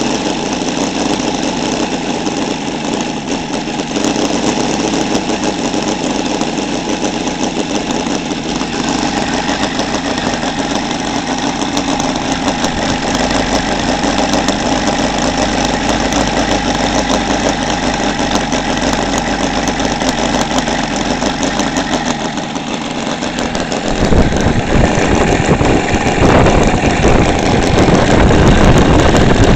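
Seidel 7-70 seven-cylinder glow radial model engine running on a test stand with a 24 x 10 propeller, during its break-in on methanol fuel. It runs steadily, then grows louder and fuller about four-fifths of the way through.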